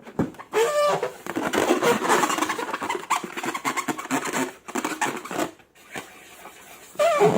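Sticky crackling and squelching of slime being worked, with short squeaky rubber squeals near the start and again near the end, typical of long balloons being squeezed.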